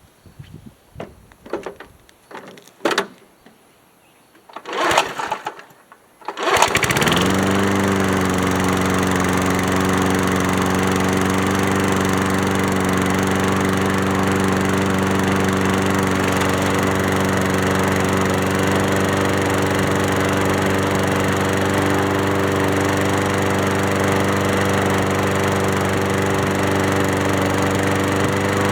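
1979 Ace Hardware push mower's engine pulled over by its recoil starter a few times, catching about six seconds in, revving up and settling into steady running. It fires now that its breaker points have been cleaned.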